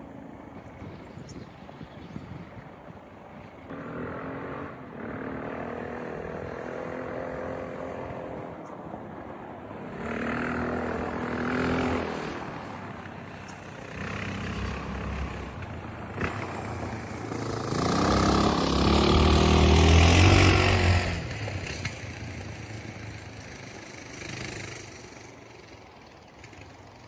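Honda XR650L's single-cylinder engine running, its sound rising and falling in several waves as it is revved, loudest about two-thirds of the way through, then fading away.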